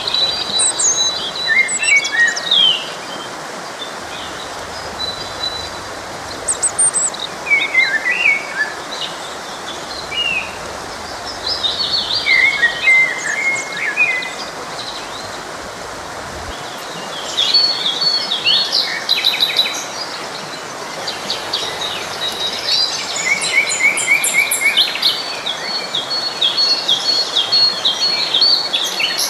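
Songbirds chirping and singing in quick, short phrases over the steady rush of a forest stream. The birdsong grows busier and more overlapping in the second half.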